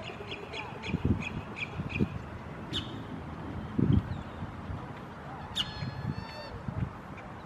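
Birds calling outdoors: a quick run of short high notes, about three a second, for the first two seconds, then one longer caw-like call about six seconds in. A few dull low thumps come through as well, the loudest about four seconds in.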